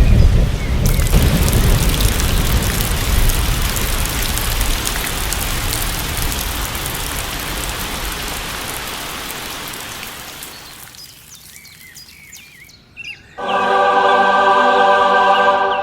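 Heavy rain with low rumbling thunder, fading away over about ten seconds, then a few bird chirps. Near the end comes a steady held tone of several pitches together, lasting about two and a half seconds.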